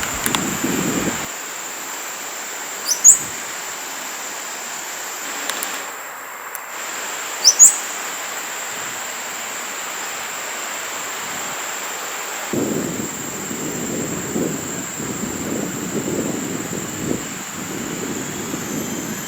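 Forest ambience with a steady high-pitched drone and two short, sharp rising bird calls, about three seconds in and again about seven and a half seconds in. A low rumble joins in about two thirds of the way through.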